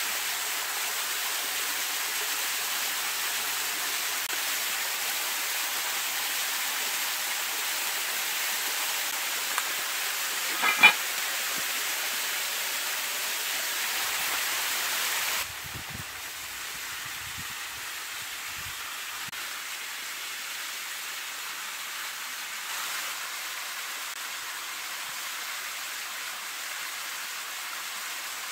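Steady hiss of potatoes and beef frying in a cast iron pot, over the rush of a small cascade waterfall. About eleven seconds in comes a single ringing clank as the lid goes onto the pot. About halfway through, the hiss cuts off suddenly, leaving a quieter steady rush of water.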